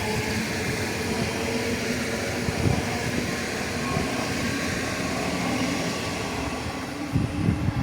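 A passenger train running through the station: a steady rumble of wheels on rails, with a few faint held tones above it.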